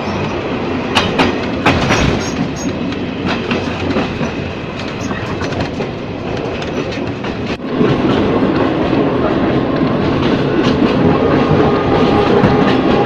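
Ex-JR 203 series electric multiple unit running on track, wheels clicking over rail joints. About eight seconds in, the running noise grows louder and a steady humming tone comes in.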